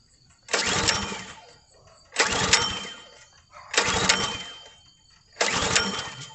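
Recoil starter of a Kohler 6.5 hp 196 cc single-cylinder engine pulled four times, each pull a short burst of cranking that dies away without the engine catching. The engine is being turned over with the fuel shut off and the choke on to clear out fuel, because the carburetor is flooding.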